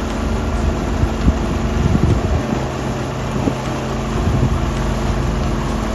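A vehicle's engine running steadily: a low hum with a few brief knocks.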